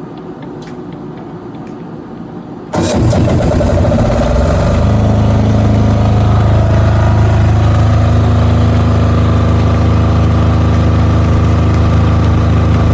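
Soft background music, then about three seconds in a diesel generator starts up with a sudden loud onset and settles within a couple of seconds into a steady run. It is started automatically by the hybrid inverter once grid power is cut.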